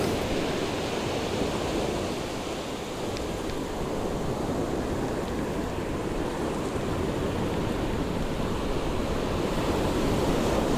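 Ocean surf washing steadily on the beach, with wind.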